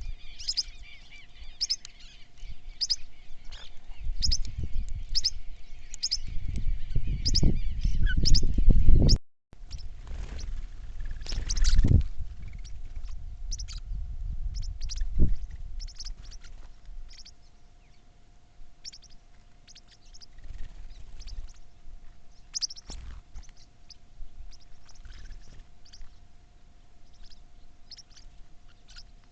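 Small birds chirping: short, high chirps repeated about once or twice a second throughout. A low rumbling noise builds under them in the first half, and the sound drops out briefly about nine seconds in.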